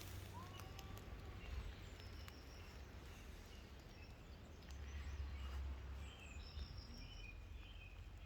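Quiet outdoor ambience: faint, scattered bird chirps over a low rumble of wind on the microphone that swells briefly about five seconds in.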